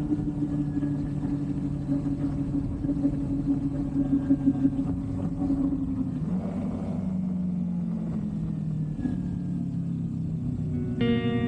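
Kawasaki Versys 300X parallel-twin motorcycle engine running under way, a steady engine note that drops in pitch about six seconds in, as when easing off or changing gear.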